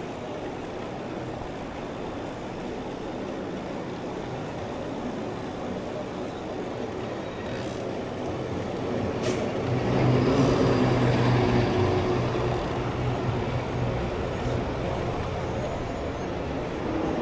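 City street traffic heard from a moving bicycle: a steady wash of engine and tyre noise, growing louder about ten seconds in as a heavy vehicle such as a bus or truck runs close by with a low engine drone, then fading.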